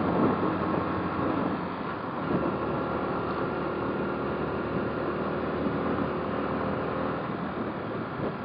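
Motorcycle engine running at a steady speed while riding, mixed with road and wind noise.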